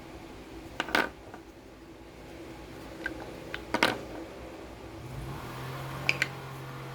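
A few short, sharp clicks and clinks of small hard objects being handled, over a steady low hum; a second, lower hum comes in about five seconds in.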